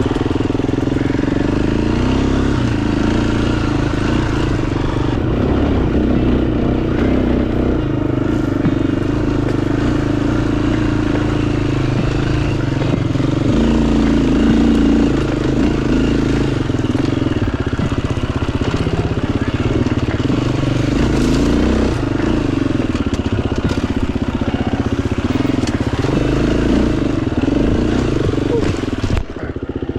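Dirt bike engine running while riding, its pitch rising and falling with the throttle, with a brief drop about a second before the end.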